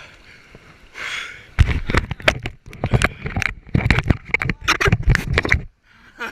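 Kayak running a waterfall: a dense run of loud knocks and crashing water hitting the camera for about four seconds, cutting off suddenly, after a short breath about a second in.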